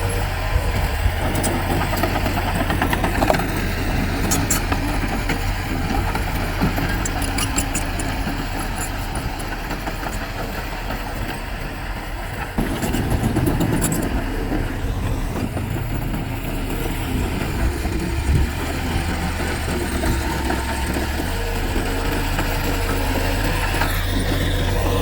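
Heavy diesel earthmoving machinery running steadily; its engine gets louder about halfway through, with a few light clicks earlier on.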